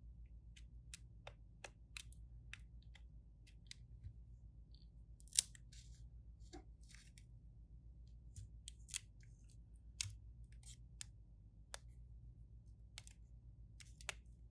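Scattered small, sharp clicks and taps of hand tools on a phone being taken apart, at irregular intervals, over a faint low hum.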